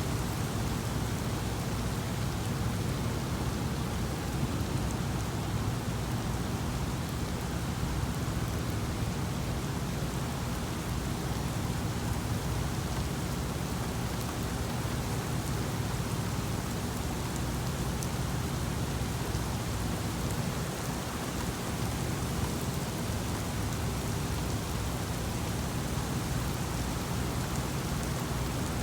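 Steady heavy rain during a thunderstorm, with a continuous low rumble underneath and no sharp claps.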